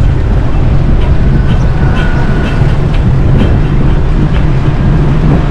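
Loud, steady low rumble of wind buffeting the microphone and road noise while riding a bicycle along a city street, with faint scattered ticks.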